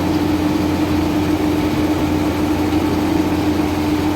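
Heavy engine idling steadily, a constant low hum with a steady drone.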